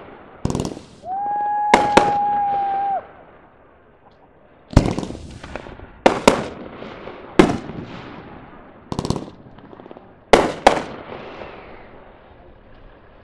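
Aerial fireworks shells bursting: about ten sharp bangs at irregular intervals, several in quick pairs, each followed by a crackling tail. Near the start, a loud steady high tone sounds for about two seconds over the bangs.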